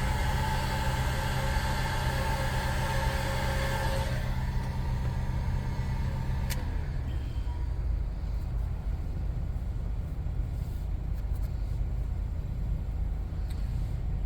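Heat gun blowing steadily with a motor whine, switched off with a click about six and a half seconds in, drying and setting a vinyl seat repair. A low rumble carries on after it stops.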